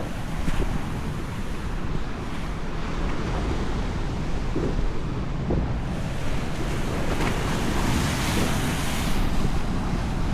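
Atlantic Ocean surf breaking and washing ashore in a steady rush, with wind buffeting the microphone.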